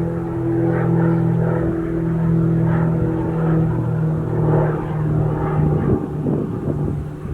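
Airliner engines running steadily with a constant low hum and a tonal drone, turning rougher and more rumbling in the last second or so.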